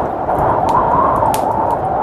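Blizzard wind blowing steadily and swelling in a gust through the middle, over a fireplace fire crackling with a few sharp pops.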